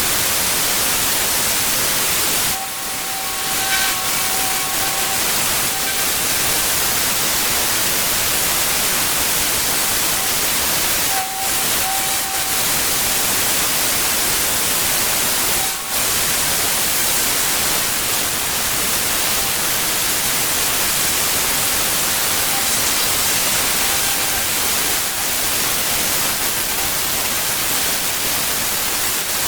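Pressure washer jet spraying hard onto paving: a loud, steady hiss that dips briefly three times as the spray is interrupted, letting a faint whine show through.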